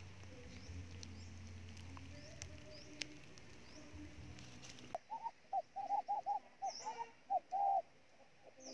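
Bird calls: faint high chirps, then about five seconds in a quick run of about eight short hooting notes, followed by lower notes near the end.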